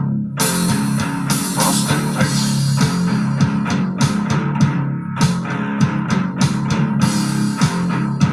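Live rock band playing an instrumental passage: guitar over bass and drums, with a short break just after the start.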